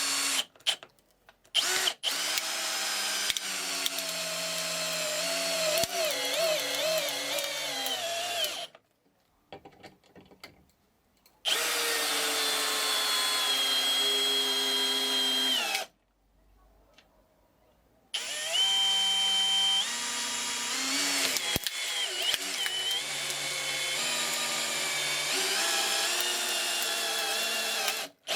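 Bosch GSR 185-Li 18V cordless drill/driver running in four long bursts with short pauses between them. Its motor whine wavers and steps in pitch as the trigger and load change.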